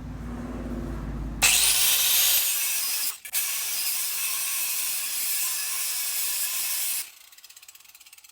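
Angle grinder with a cutting wheel cutting metal: a loud, steady hiss that starts suddenly about a second and a half in, breaks off briefly about three seconds in, and stops about seven seconds in.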